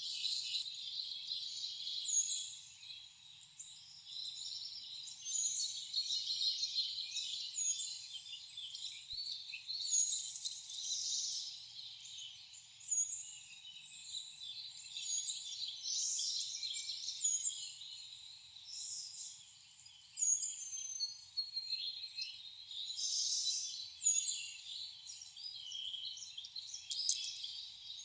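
Wild songbirds chirping and calling, many short calls overlapping, with one short high note repeated about once a second through much of it.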